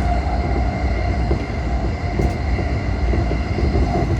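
An E235-1000 series electric commuter train running along the track, heard from inside: a steady low rumble of wheels on rail with a faint constant whine above it.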